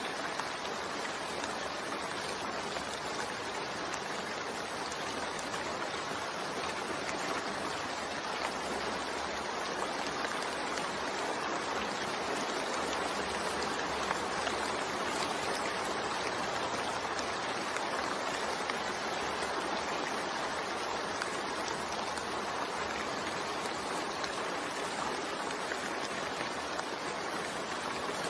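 Steady rain falling: an even, unbroken hiss with no distinct drops or pauses.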